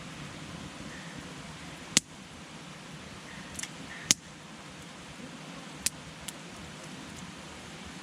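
Wood campfire burning with a steady low rush and several sharp crackling pops, the loudest about four seconds in.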